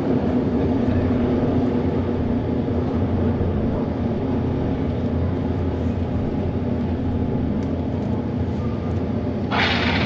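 Auto race motorcycle engines running steadily with a low, even drone. Near the end a brass fanfare starts abruptly.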